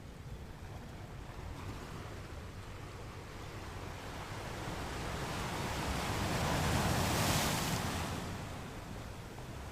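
Ocean surf: a wave swells up and breaks about seven seconds in, then washes back down to a steady hiss of water.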